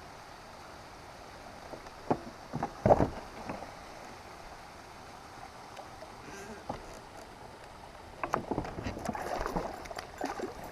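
Knocks and bumps on a fishing kayak over a faint steady background. A few sharp knocks come about two to three seconds in, then a denser run of clicks and clatter from about eight seconds in as a small bass is landed and handled.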